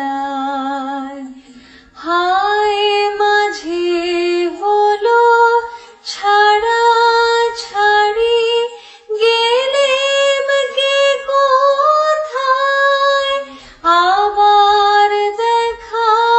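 A high female voice singing a Bengali song in held, wavering phrases, with short breaks between phrases.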